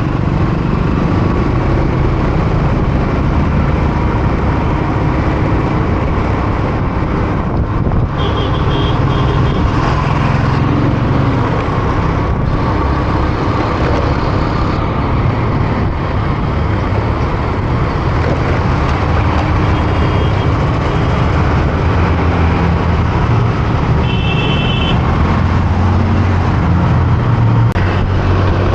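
Riding a motorcycle through road traffic: a steady rush of wind and road noise over the low running of engines, with a few short high beeps from the traffic.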